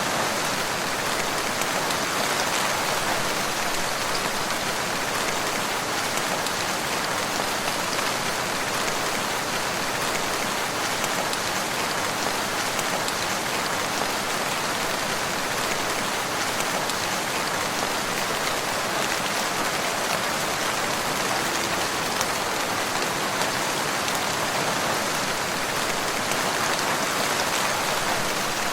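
Steady, even rain falling, a dense patter of drops without let-up.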